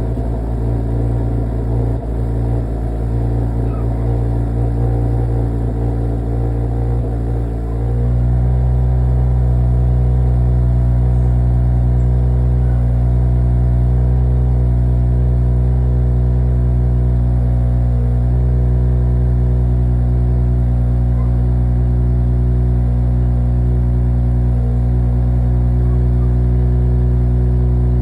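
Audi S4 B9's V6 engine idling steadily just after a cold start. About eight seconds in the note shifts and gets slightly louder, then holds steady.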